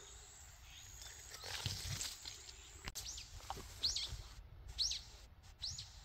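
A bird calling outdoors: short, high chirps that sweep downward, repeated roughly once a second from about halfway in, with a few soft low thumps beneath.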